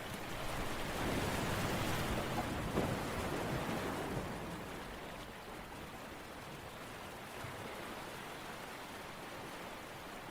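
Rushing water ambience, an even hiss-like wash of noise that swells about a second in and eases off after about four seconds, then settles to a steady lower rush.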